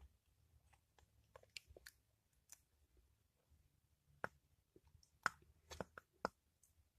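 Faint, scattered clicks and taps of plastic as glue is squeezed out of its bottle into a bowl, with a few louder clicks in the second half.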